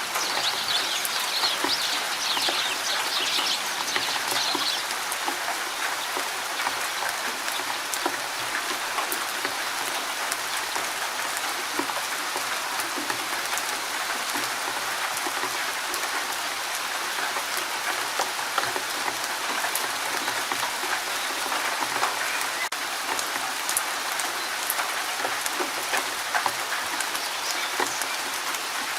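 Steady rain falling in a forest: a dense, even patter of drops with scattered sharper drips. A bird's high twittering call sounds over the rain for the first few seconds.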